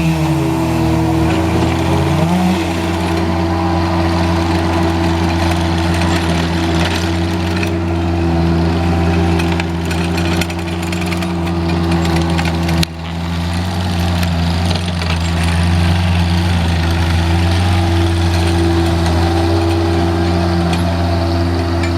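An engine running steadily at a held speed, its pitch shifting briefly in the first two seconds and dipping for a moment about halfway through.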